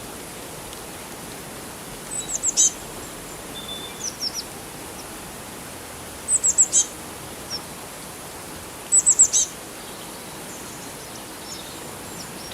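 Small birds chirping: three quick runs of four or five high, falling notes, a few seconds apart, with a few softer chirps between. Under them runs a steady rush of flowing water.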